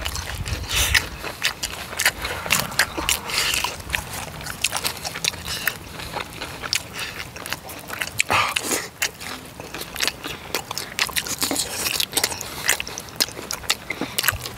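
Close-miked chewing of spicy tteokbokki rice cakes in sauce, with many irregular wet smacking and clicking mouth sounds.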